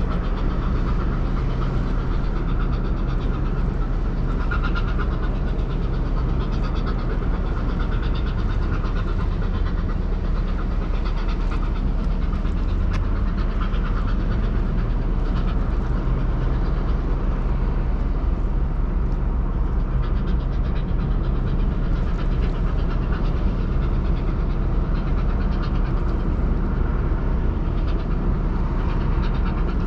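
Ro-Ro passenger ferry's engines droning steadily as a constant low hum under an even rushing noise.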